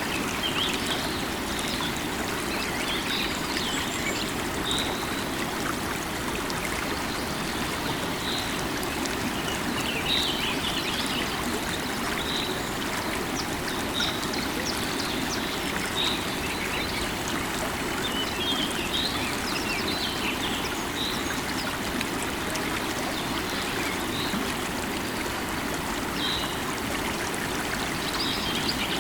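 Steady rush of a flowing river, with small birds chirping over it, short calls coming every second or two.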